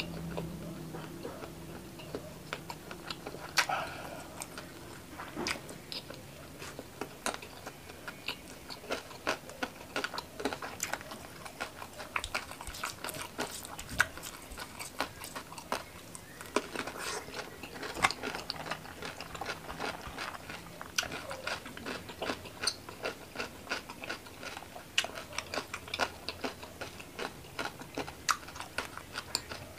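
A person chewing and biting food close to the microphone: a steady run of crisp crunches, wet clicks and mouth smacks, with the sharpest crunches about halfway through.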